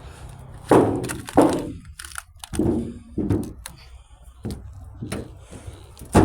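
A series of heavy metal thuds and cracks, about seven sharp impacts at irregular spacing, as someone jumps and stomps on the body of an abandoned car.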